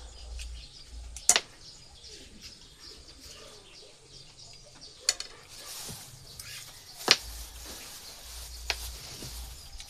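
Four sharp clicks or taps, the loudest about a second in and about seven seconds in, over a background hiss that thickens from about halfway.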